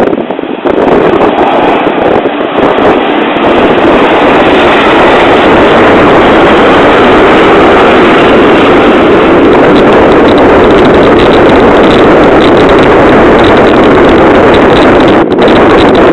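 Jet airliner's engines close by, a loud steady noise that builds over the first few seconds and then holds, overloading a mobile phone's microphone.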